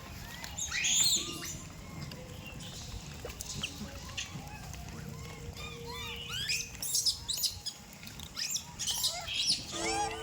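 Many short, high-pitched animal chirps and squeaks, coming thicker in the second half, with a louder rising squeal about a second in.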